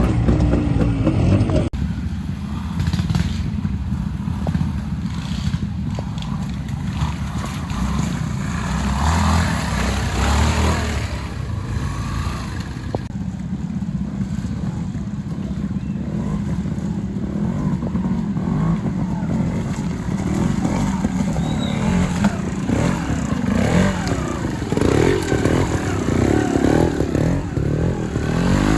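Trials motorcycle engines running at low revs through an observed section, with the throttle opened and closed so the revs rise and fall twice: around a third of the way in and again near the end.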